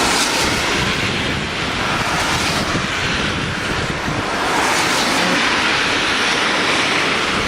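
Steady rushing of a swollen river in flood, with wind buffeting the microphone.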